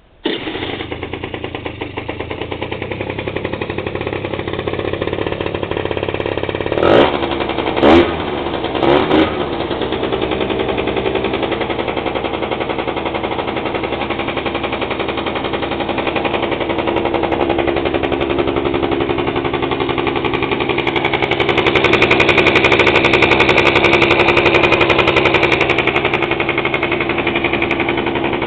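49cc scooter engine running after a carburettor repair, starting abruptly at the beginning. It is blipped three times in quick succession about seven to nine seconds in, then held at higher revs for several seconds near the end.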